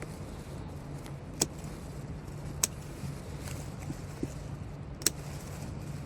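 A steady low hum with three sharp ticks spaced irregularly over the few seconds.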